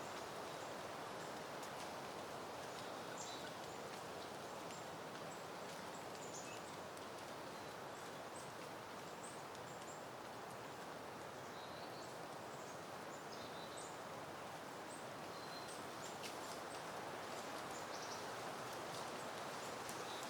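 Soft, steady wind hiss with leaves rustling, and faint, short, high bird chirps dotted throughout.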